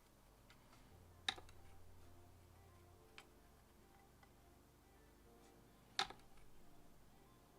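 Near silence with two sharp clicks, about a second in and near the end, and a few fainter ticks between them.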